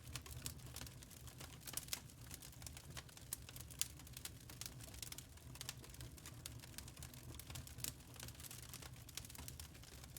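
Wood fire crackling: irregular sharp pops and ticks over a low steady rumble of the burning fire.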